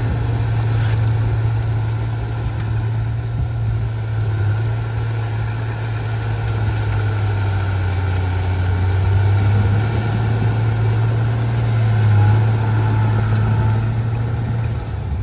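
Diesel engine of heavy earthmoving machinery, such as a bulldozer, running steadily with a deep, even hum that swells slightly now and then.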